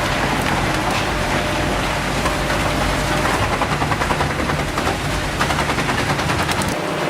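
Heavy machinery running loudly with a rapid clattering run of many quick impacts, densest in the second half.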